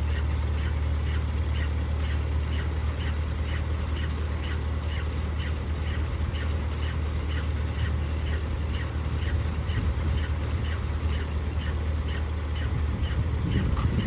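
Vintage Claas Compact 30 combine harvester running with a steady low engine drone, over which a short high-pitched mechanical sound repeats evenly about two and a half times a second from its moving parts. The low drone grows unsteady briefly near the end.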